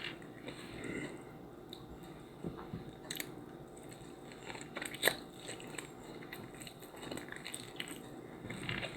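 A person chewing and biting food close to the microphone, with scattered small crunches and mouth clicks.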